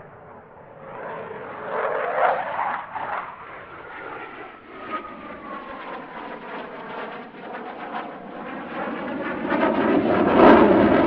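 Eurofighter Typhoon's twin EJ200 jet engines on a low display pass, a whining tone sliding down in pitch through the middle as the jet goes by. The engine noise swells and is loudest near the end.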